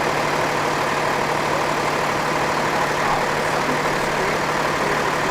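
Water truck's engine idling steadily: a constant low hum under an even wash of noise.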